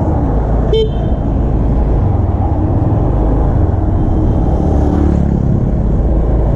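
Street traffic: a steady rumble of motorbikes and cars going past, with one brief sharp click about a second in.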